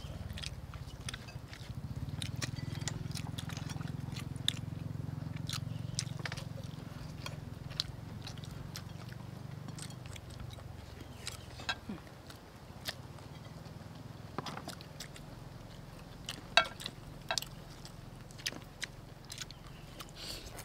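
People eating fried chicken and tofu with noodles: wet chewing, lip smacks and sharp mouth clicks, scattered and irregular, over a steady low hum that fades somewhat about halfway through.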